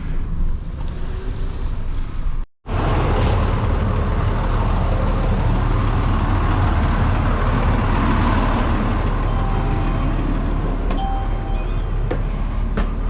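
Vehicle engine and road noise heard from inside the cab as it moves, with a steady low rumble. It cuts out for an instant about two and a half seconds in, then resumes louder.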